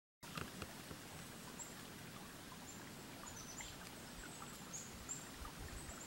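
Faint, high, thin bird calls, many short notes, over a steady background hiss.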